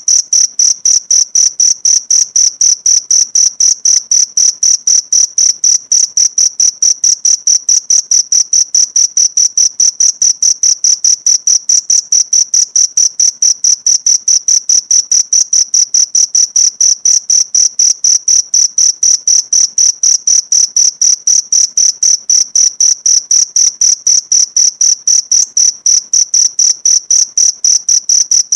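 Cricket chirping loudly, with short, high, even pulses several times a second that keep the same pace throughout.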